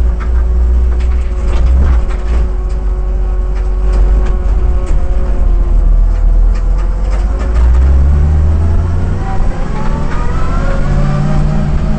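Shelby GT350's V8 engine heard from inside the car, a heavy low rumble at low speed. Over the last few seconds its note rises as the car accelerates.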